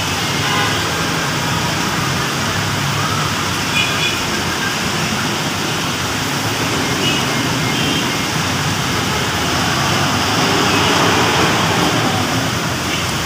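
Heavy rain pouring steadily, an even hiss mixed with the noise of road traffic.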